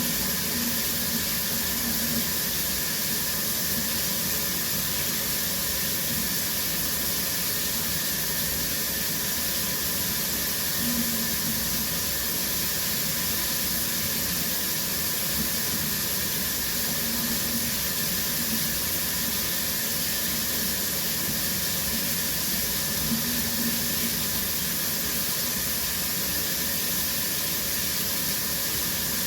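Shower running steadily, spray hissing evenly onto the floor of the stall.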